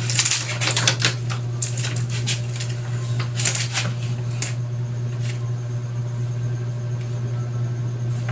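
Irregular light clicking and scraping sounds, several in the first half and fewer after, over a steady low electrical hum.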